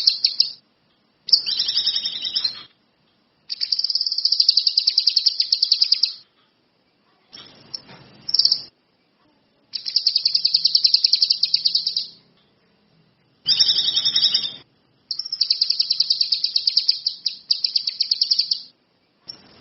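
A kinoi songbird singing in full voice: a run of loud phrases, each one to three seconds of rapid, high, trilling chatter, with short pauses between them.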